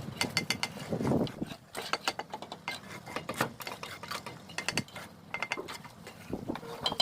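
Bricklaying with a steel trowel: repeated sharp metallic clinks and taps of the trowel on bricks and mortar, with a duller scrape of mortar about a second in.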